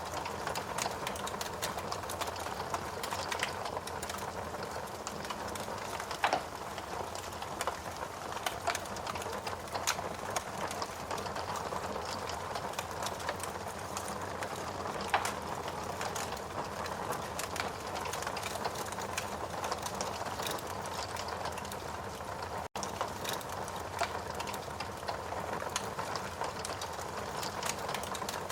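Wood fire crackling steadily in a fireplace: a dense run of small crackles with a few louder pops, one about six seconds in and another just past the middle. The sound cuts out for a split second about three quarters of the way through.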